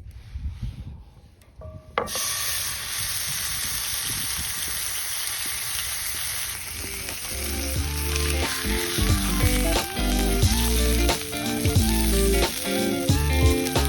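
A thick steak sizzling as it sears over a campfire. The loud, even sizzle starts suddenly about two seconds in, as the meat meets the hot surface.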